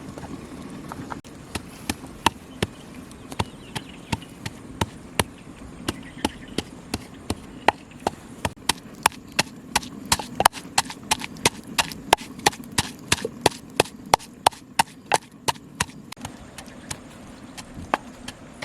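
Knife chopping on a wooden cutting board: sharp knocks, a few at first, then a steady run of about two to three strokes a second, slowing to occasional strokes near the end.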